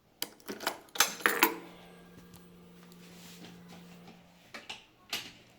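A few sharp clicks and rattles from handling the motorcycle, then a steady low hum lasting about three seconds, then more clicks near the end, all just before the engine is started.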